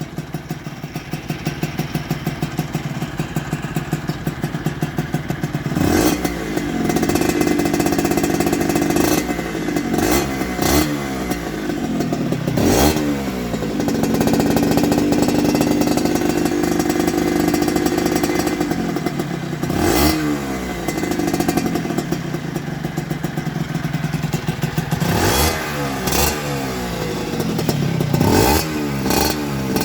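Honda MBX 75's two-stroke single-cylinder engine idling with a fast, even beat, then blipped repeatedly. Each rev rises sharply and drops back to idle. About halfway through the engine is held at higher revs for several seconds.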